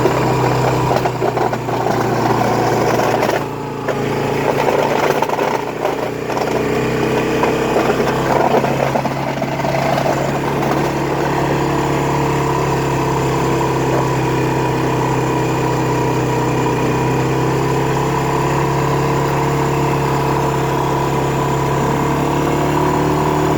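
Honda ATV engine running while pushing snow with a front plow blade. The engine note drops and picks up again a few times in the first ten seconds or so, then holds steady.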